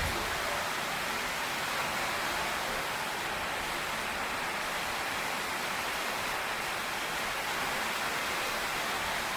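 Heavy tropical rain pouring steadily on a tin roof, an even hiss with no thunder.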